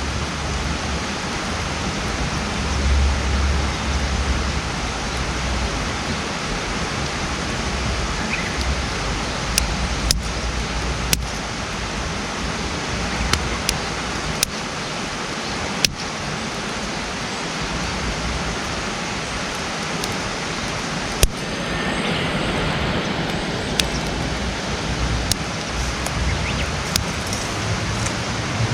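Wood campfire burning with a steady hiss and occasional sharp pops and crackles from the wood.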